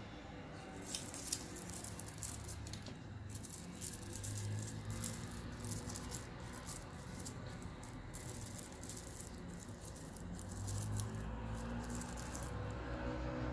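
Electric fan running on its strong setting: a steady rush of air, with quick, irregular clicks and rattles over it for most of the time.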